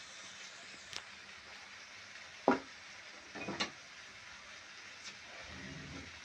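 Food sizzling as it fries in a pan, with a spoon stirring: a sharp knock against the pan about two and a half seconds in, then a short scrape a second later.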